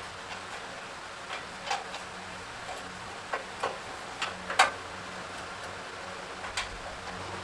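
Irregular sharp taps and clinks of hand tools on metal machine parts, about eight in all, the loudest a little past halfway, over a faint steady hum.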